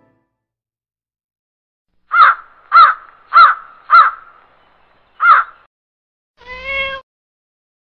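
A crow cawing: four harsh caws about half a second apart, then one more a second later. Near the end comes a short, steadier, higher-pitched call.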